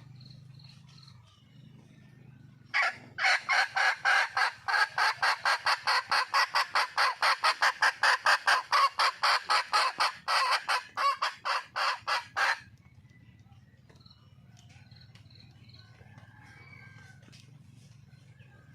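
Junglefowl hen cackling to call for a mate: a rapid run of loud, sharp clucks, about four a second, starting about three seconds in and lasting some ten seconds, over faint insect chirping.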